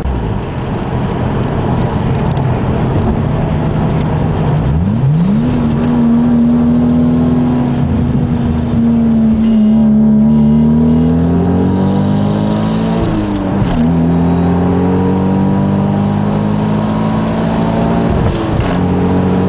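Car engine heard from inside the cabin, pulling hard under acceleration on the highway. About five seconds in the engine note jumps sharply upward, then climbs steadily, dropping back twice at gear changes, about two thirds in and near the end, before rising again.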